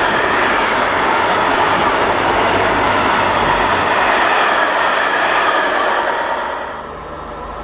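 A train passing on the track: a loud steady rush of wheels and cars that drops away about seven seconds in as the train clears, leaving a low steady hum.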